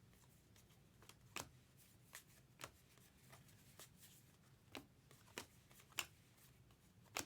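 Faint handling of trading cards: about eight soft, separate clicks and snaps at irregular spacing as cards are slid and flipped one after another in the hands.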